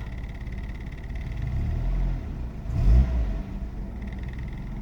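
Nissan GA16DS 1.6-litre carbureted four-cylinder engine running just after a cold start, with a brief rise in engine speed about three seconds in before it settles back.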